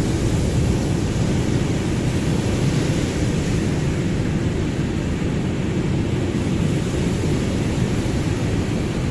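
Ocean surf as a continuous, steady low rush, with no separate wave crashes standing out.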